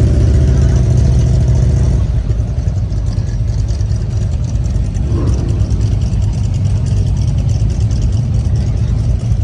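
Motorcycle engines running at low revs in street traffic, a steady low drone. One engine holds a steady note for the first two seconds.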